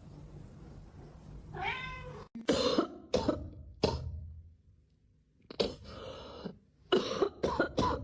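A cat meows once, about one and a half seconds in. A string of short, sharp sounds follows, with a brief quiet gap midway and more of them near the end.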